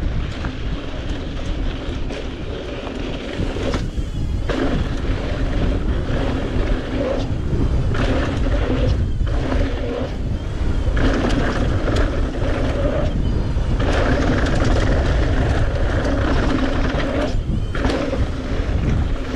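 Strong gusty wind rushing over the microphone during a fast mountain bike run down a dirt jump line, mixed with the bike's tyres rolling on dirt.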